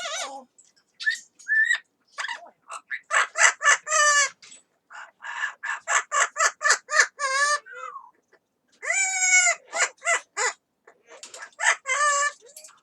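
Yellow-crowned amazon parrot calling: a quick run of short squawks and chattering notes, with longer wavering calls about seven and nine seconds in.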